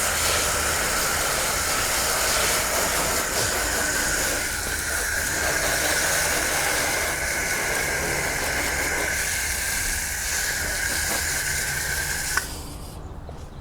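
Steady hiss of a pressure washer jet spraying water, with a faint steady high whine, cut off suddenly about twelve seconds in.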